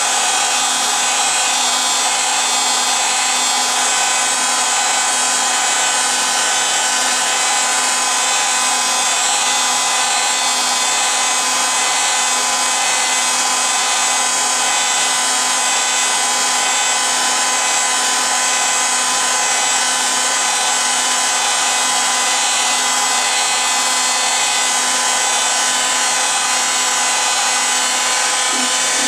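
Steady rushing hiss of a small electric blower motor, with several constant high whining tones over it.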